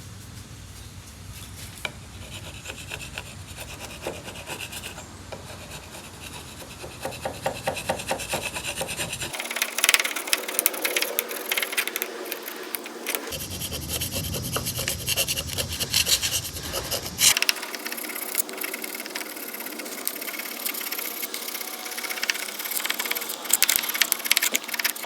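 Old carburetor gasket being scraped off the carburetor mounting flange of a Type 4 VW engine: a hand tool rasping on metal in rapid, repeated back-and-forth strokes.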